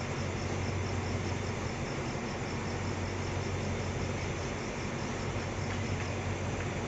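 Steady low hum and noise of a diesel train idling while standing at a station platform. Faint insect chirping repeats about four times a second and fades out near the end.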